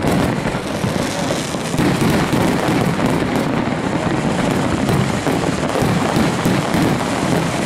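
Aerial fireworks, many shells bursting at once, so that bangs and crackles run together without a break.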